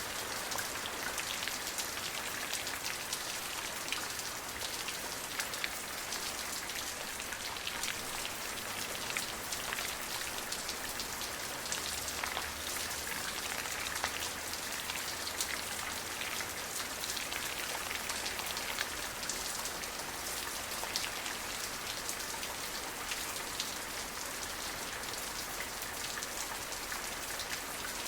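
Steady rain falling, a dense even hiss with the patter of individual drops striking a surface.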